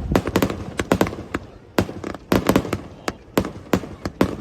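Aerial fireworks bursting in a rapid, irregular series of sharp bangs, several a second, each trailing off in a brief echo.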